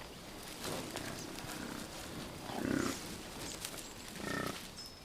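Bison giving a few low grunts, the loudest about halfway through.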